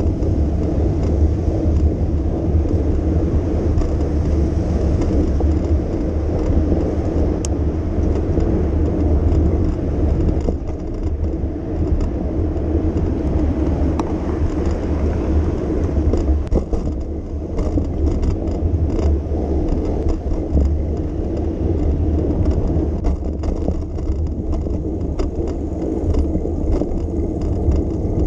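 Steady city street noise heard from a moving bicycle: traffic and rolling tyres over a continuous low rumble.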